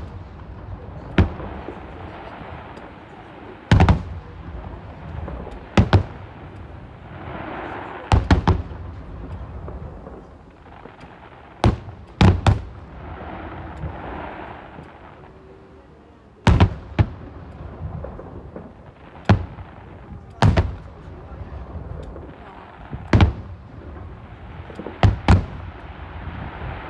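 Aerial firework shells bursting in loud, sharp bangs, over a dozen at irregular gaps of one to three seconds, several in quick pairs or clusters. A murmur of crowd voices runs underneath.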